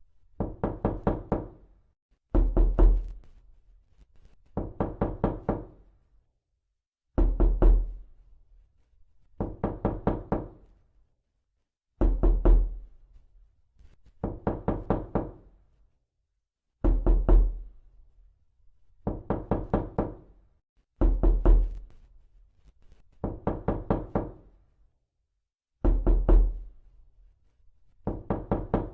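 Knocking in quick groups of several raps, one group roughly every two seconds, with silence between the groups.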